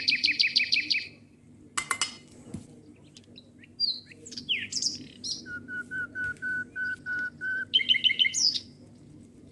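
A songbird singing a varied song: fast trills, chirps and quick glides, and a run of about eight even notes on one pitch, over a low steady hum.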